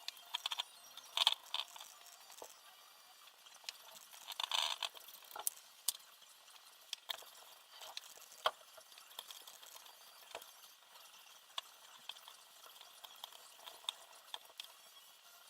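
Small parts being handled: scattered light clicks, taps and rustles, with brief louder clattering about a second in and again around four and a half seconds.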